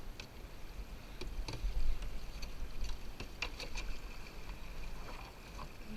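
Canoe being worked up a shallow riffle: scattered sharp knocks and clicks from the paddle and hull against rocks, over running water, with wind buffeting the microphone.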